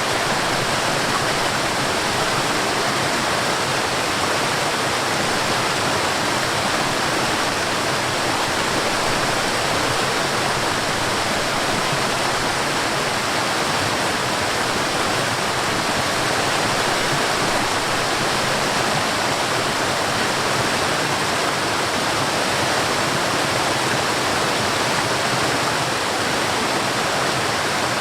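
Waterfall in a forest: a steady, even rush of falling water.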